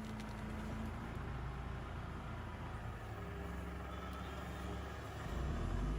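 Tractor engine running steadily while powering a Hypro 755 tractor-mounted processor, with a low hum. About five seconds in, the engine note deepens and grows louder.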